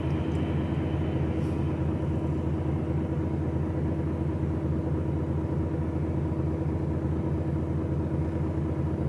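HGV lorry's diesel engine running steadily, a constant-pitch drone with no change in revs.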